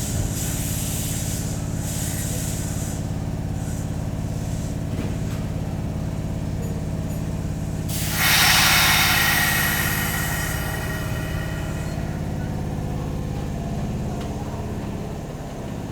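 Electric commuter train standing at a station platform, its equipment giving a steady low hum. About eight seconds in comes a sudden loud hiss of compressed air, fading away over a few seconds.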